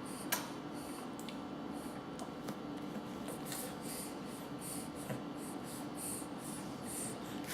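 Quiet room with a steady low hum and hiss while a baby is spoon-fed. There is one sharp click shortly after the start, a few faint ticks, and soft, short, repeated feeding noises in the second half.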